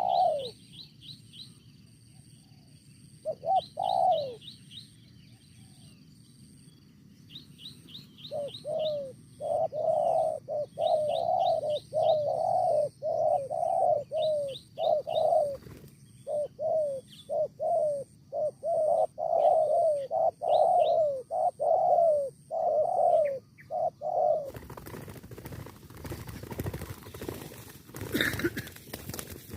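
Spotted dove cooing: low, falling coo notes repeated in long series. Above them a small bird gives short runs of rapid high chirps. About 24 seconds in, the calls stop and a rustling noise takes over.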